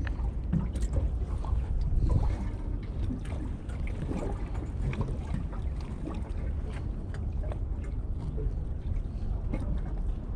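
Wind buffeting the microphone over the wash of sea surf on a rocky shore, a steady low rumble with scattered small clicks and splashes.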